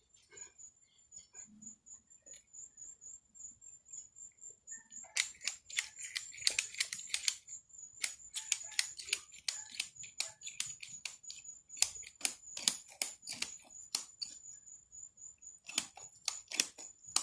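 Ratchet strap being cranked tight: quick runs of sharp metal ratchet clicks starting about five seconds in, broken by short pauses as the handle is reset.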